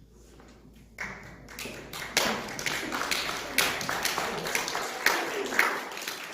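Congregation applauding, with many hands clapping; it starts suddenly about a second in and grows, with some voices mixed in.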